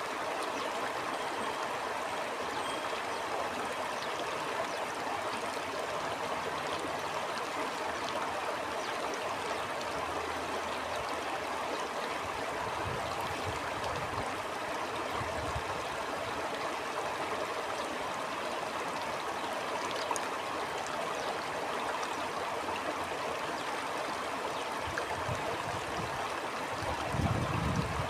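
Stream water flowing in a steady rush, with a few low gusts of wind about halfway through and near the end.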